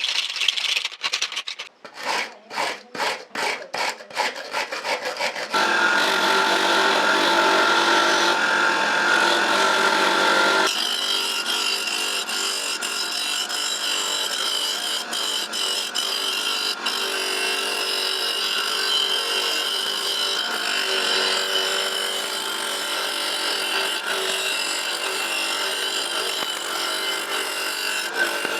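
Metal oil-can parts being scraped by hand, quick even strokes about three a second, then a small power tool running steadily as it grinds or polishes the rusty metal, its tone shifting once partway through.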